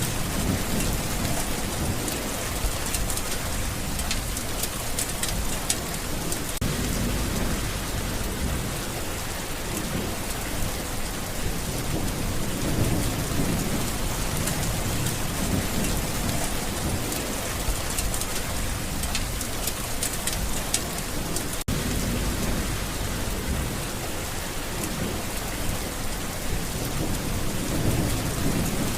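Steady heavy rain pattering on surfaces, with low rolling rumbles of thunder swelling and fading underneath.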